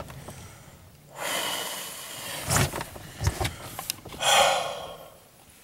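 A person breathing out heavily twice, like sighs, the second about four seconds in and the louder, with a few small clicks in between.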